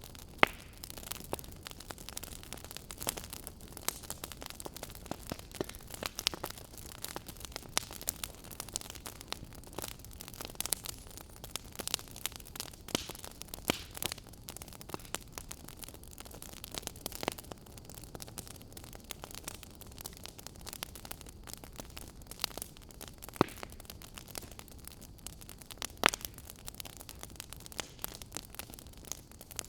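Fire burning in a fireplace, crackling steadily over a soft hiss, with irregular sharp pops; a few pops stand out louder, one near the start and two in the last few seconds.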